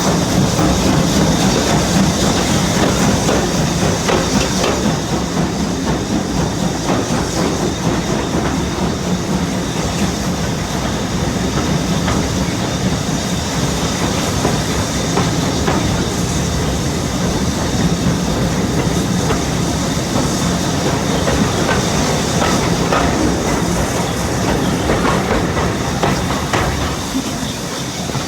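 Heritage railway train running along the line: a steady rolling noise with the clickety-clack of wheels over the rail joints.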